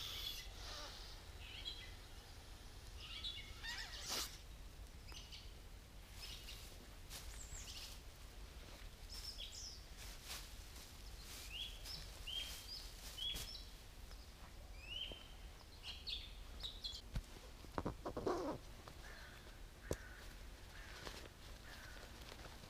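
Small birds calling with short, rising chirps again and again, over faint rustling and a few sharp knocks of camping gear being handled.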